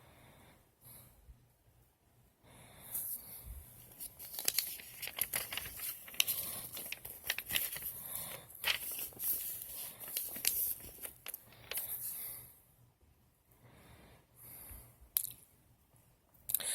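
Paper rustling and crinkling in irregular bursts with small clicks: the pages of a printed instruction manual being handled and turned.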